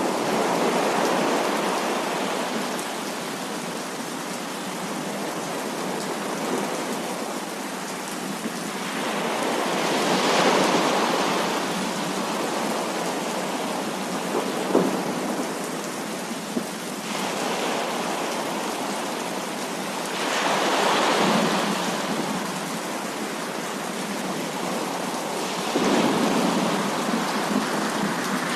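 Heavy rain falling steadily, with rolling thunder swelling up and dying away three times and a brief sharp crack near the middle.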